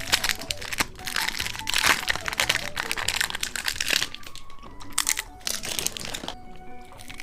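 Crinkling and crunching of candy being unwrapped and eaten close to the microphone, over background music. The crackling is thickest in the first four seconds and comes again about five to six seconds in.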